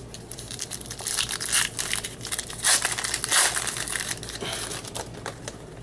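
Plastic foil wrapper of a 2013 Bowman Baseball pack being torn and crinkled as it is opened, in a run of crackly rustling that is loudest around the middle.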